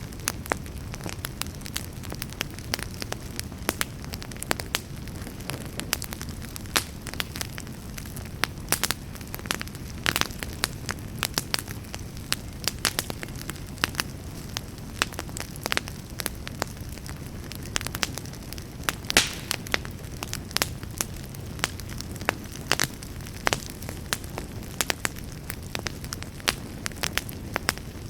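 Campfire burning with dense, irregular crackling: many sharp pops and snaps over a steady low rumble of flame.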